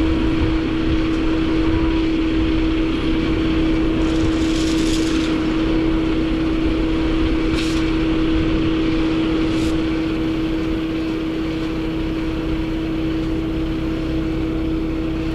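A motor vehicle's engine running steadily, with a constant low hum and rumble. Three short hisses break in about four, seven and a half, and nine and a half seconds in.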